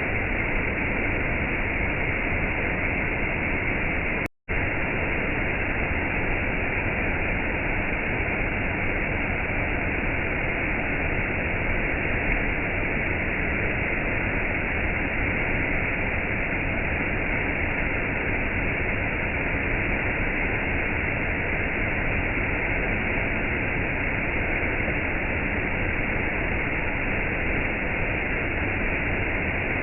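Steady rush of gentle rain and a waterfall, an even hiss without separate drops or splashes. It cuts out for a split second about four seconds in, then resumes unchanged.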